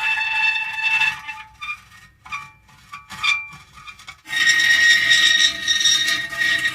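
Metal creaking: a sustained high squeal, then a stretch of short broken creaks with quiet gaps, then a loud held squeal again from about four seconds in.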